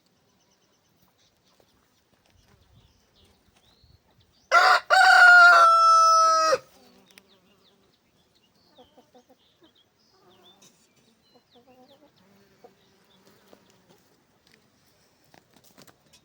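A rooster crows once, about four and a half seconds in: a short first note, then a long held note that falls slightly in pitch and cuts off abruptly.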